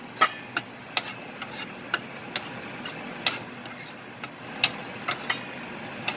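A cooking utensil clicking and scraping against the pan as ground-chicken giniling is stirred, with irregular clicks about two a second. A steady hiss of the simmering pan lies underneath.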